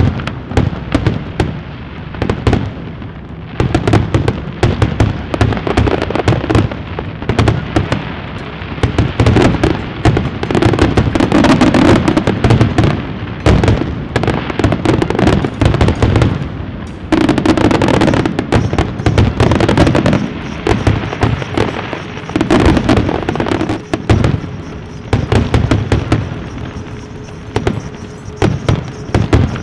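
Fireworks going off in a dense, continuous barrage of rapid bangs and crackles, with louder volleys coming in clusters every few seconds.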